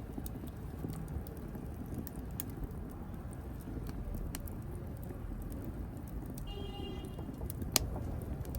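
Wood fire burning in a fireplace: a steady low rumble of flame with frequent sharp crackles and one loud pop near the end. A brief whistling tone sounds about two-thirds of the way through.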